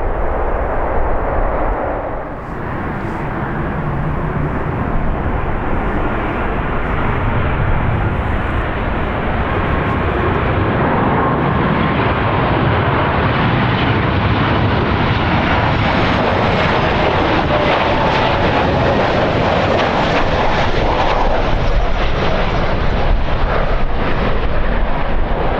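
Jet airliner's engines, a steady noise that grows louder over the first dozen seconds and gains more hiss in the second half, with strong wind buffeting the microphone.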